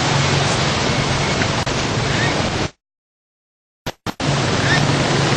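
Loud, steady rushing noise with a low hum underneath. It cuts out to dead silence about halfway through, and after a short blip or two it comes back.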